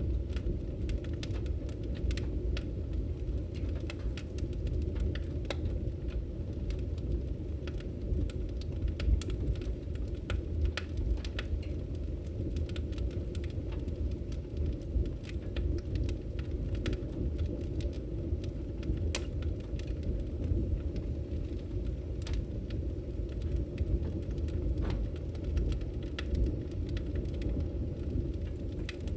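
Wood fire burning in a fireplace: a steady low rush of flames with many irregular sharp crackles and pops.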